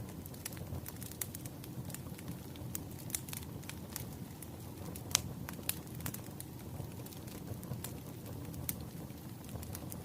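Crackling fire: a steady low rumble of flames with irregular sharp pops and snaps, the loudest about halfway through.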